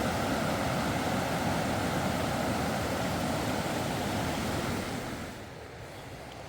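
Steady rush of falling or flowing water, a waterfall or stream close by. It drops noticeably quieter about five seconds in.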